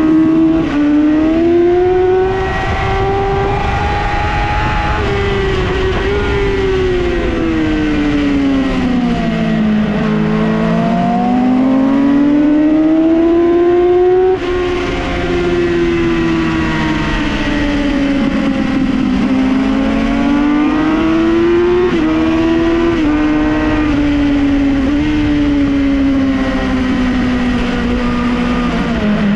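2008 Yamaha R6's inline-four engine being ridden hard, its pitch rising and falling with the throttle. The pitch falls to a low point about ten seconds in, climbs again to a brief break near fourteen seconds, then eases down in steps toward the end.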